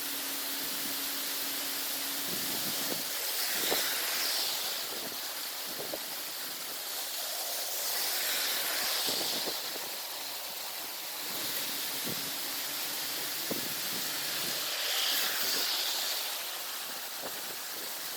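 Heavy rain pouring down: a steady hiss that swells three times, with scattered sharp ticks of drops striking nearby surfaces.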